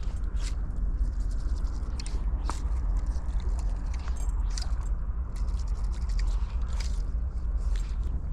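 Steady low rumble of river water with scattered small clicks and scrapes close to the microphone.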